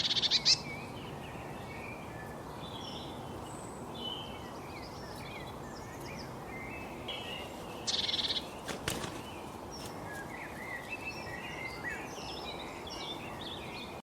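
Rainforest ambience: many birds chirping over a steady background hiss, with a loud, rapid pulsed trill right at the start and again about eight seconds in.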